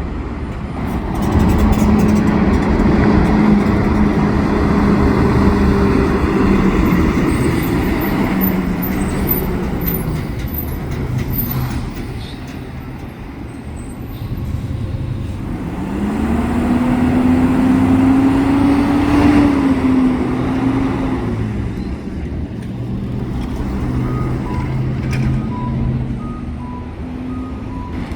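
Diesel garbage trucks driving past one after another: the first passes in the first ten seconds, the second about halfway through with its engine pitch climbing as it goes by. Faint short beeps near the end.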